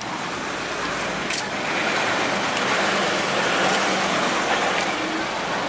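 Road traffic noise: a motor vehicle passing, its sound swelling to a peak in the middle and easing off, with a few short clicks.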